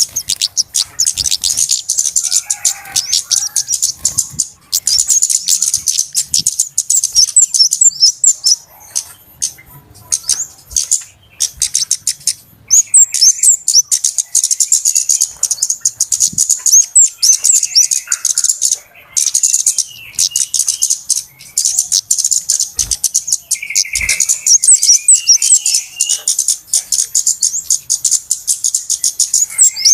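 Flowerpeckers (kemade / cabe-cabean) calling busily: a dense, rapid stream of high-pitched chips and ticks, broken by brief pauses a few times, with occasional lower twittering notes mixed in.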